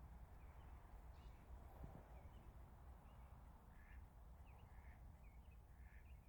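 Faint bird calls, a string of short chirps repeating every half second or so and a little clearer in the second half, over quiet outdoor background rumble.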